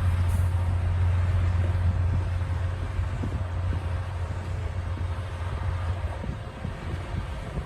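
D60 bulldozer's diesel engine running with a steady low drone, easing off a little about six seconds in.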